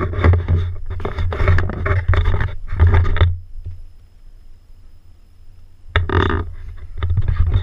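Toyota Celica Supra's 7M-GE straight-six revving hard in loud, rough surges, heard through an in-car camera mic. It eases off about halfway through, then surges again twice near the end.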